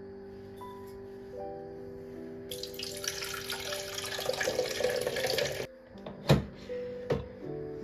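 A water tap runs for about three seconds and is turned off abruptly, then two sharp knocks follow, the first of them loud, over soft background music.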